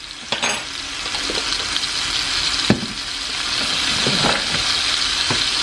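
Onion and garlic sizzling in a hot pan, the sizzle growing steadily louder, with a sharp knock about three seconds in.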